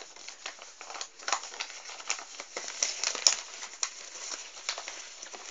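Sheet of A4 paper being handled and folded by hand, with irregular crinkling and rustling, and a sharper crackle about three seconds in.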